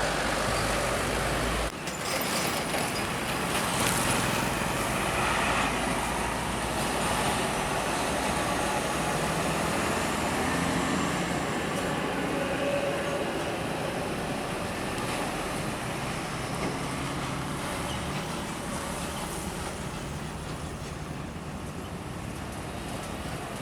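Road traffic with heavy trucks going by: a steady wash of engine and tyre noise. A low rumble cuts off abruptly near the start, the noise is loudest a few seconds in, and it slowly fades away toward the end.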